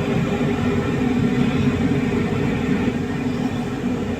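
Heavy diesel engine running steadily close by, a dense, even low rumble.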